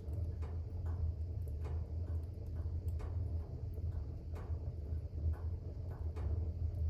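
Fire burning in a fireplace: irregular crackles and pops, about two a second, over a steady low rumble of the flames.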